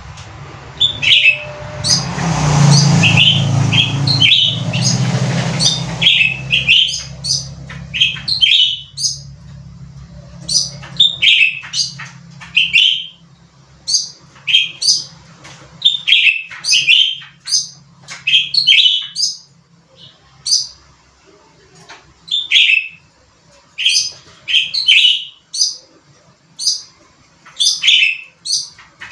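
A cucak ranting bird calling hard in quick series of short, sharp chirps, repeated over and over. For the first few seconds a loud rushing noise sits under the calls, along with a low hum that fades out about two-thirds of the way in.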